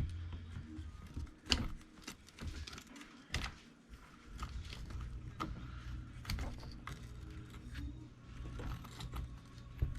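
Scattered light clicks and clinks of small plastic and metal RC-truck parts being handled and fitted during suspension reassembly of a Traxxas E-Revo 2.0, with a low steady hum coming in about four seconds in.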